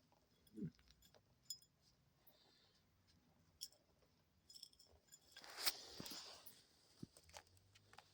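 Near silence: room tone with a few faint ticks and a short soft rustle a little past halfway.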